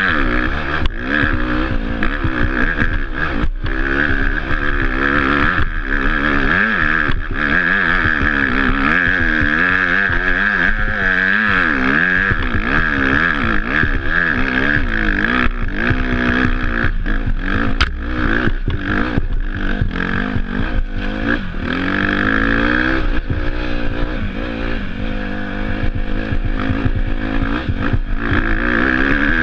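Off-road motorcycle engine being ridden, its revs rising and falling continually, with frequent sharp knocks and clatter from the bike over rough ground.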